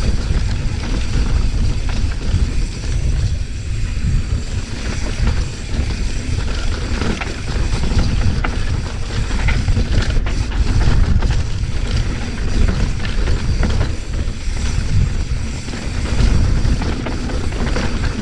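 Commencal mountain bike ridden over rough trail: wind rushing on the microphone, heavy low rumble, and many small rattles and knocks from the bike and tyres over rocks and dirt.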